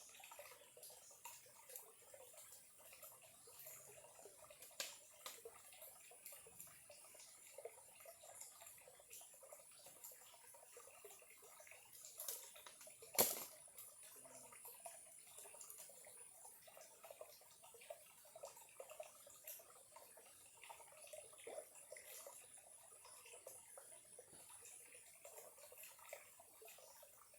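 A small clear stream trickling faintly, with many small drips and splashes. One sharp click about halfway through stands out above the water.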